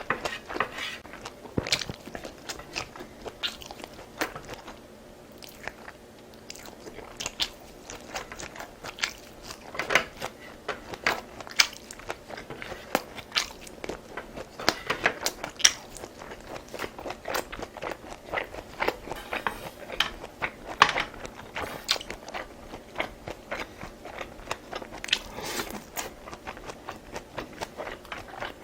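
Close-miked eating: a steady run of chewing and biting with short crunchy, wet mouth clicks, briefly quieter about five to seven seconds in.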